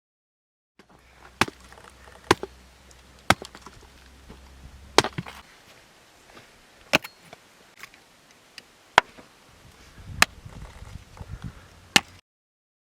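Chopping: about eight sharp strokes of a blade, one every one to two seconds at an uneven pace.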